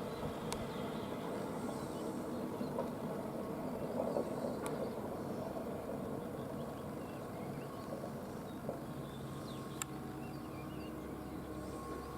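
Steady outdoor background noise with faint, high bird chirps here and there and a few sharp clicks.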